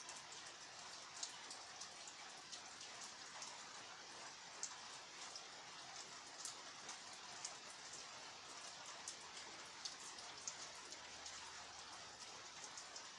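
Steady rain falling, with a faint even hiss and many separate drops ticking sharply onto a hard surface at irregular moments.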